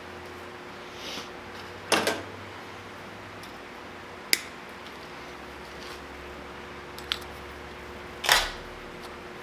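Sharp metallic clicks and clatter, about five in all, from handling the MIG welding gun's parts while the contact tip for .045 wire is fitted, over a steady electrical hum.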